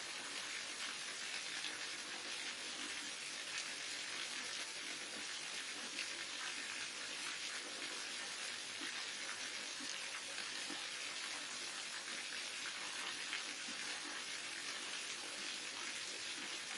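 Water falling steadily from a waterfall: an unbroken, even rush with fine splashing and spatter in it.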